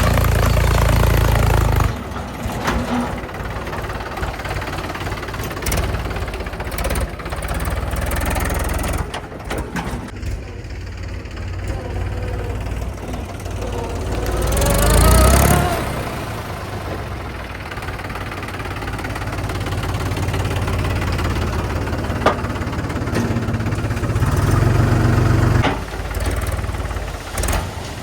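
Diesel engines of a backhoe loader and tractors running at work. The engine noise is louder at the start and again near the end, with a rising rev about halfway through and occasional knocks.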